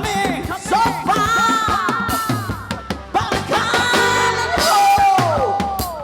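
Live afro-fusion band: a singer holding long, sliding, wordless notes over drum kit and bass.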